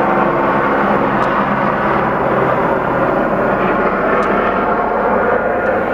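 Police helicopter's turbine engine and rotors running with a loud, steady noise.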